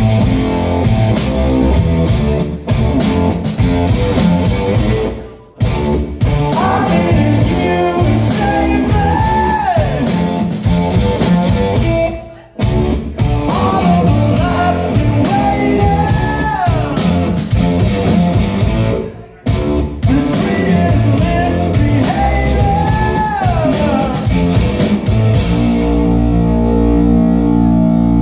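Live rock band playing: guitar and drum kit with sung vocal lines. The music cuts out briefly three times and comes back in, and ends on held, ringing chords.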